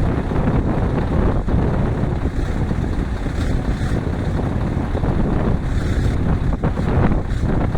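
Scania V8 truck engine running steadily with a low rumble, with wind buffeting the microphone.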